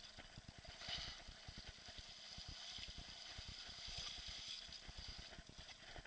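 Faint running water: a steady rushing hiss, fuller through the middle of the stretch, over low irregular rumbles.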